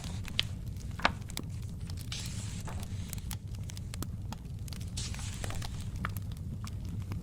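Fireplace fire crackling, with scattered sharp pops over a low steady rumble. Two soft papery swishes of book pages being turned come about two seconds in and about five seconds in.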